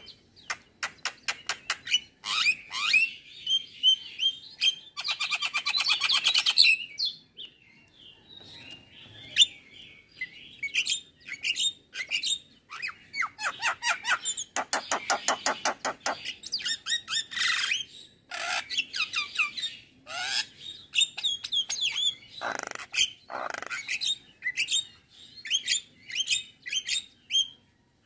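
Male Javan myna (jalak kebo) singing a long, varied song: runs of fast clicks, two long rattling trills, harsh chatters and short whistled notes.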